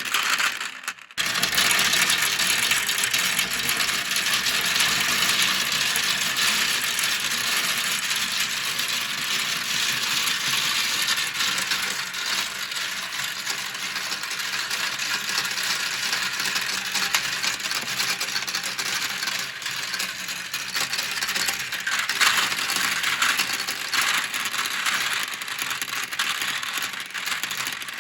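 Many marbles rolling and clattering down plastic marble-run slopes, a dense, continuous rattle of small clicks that breaks off briefly about a second in.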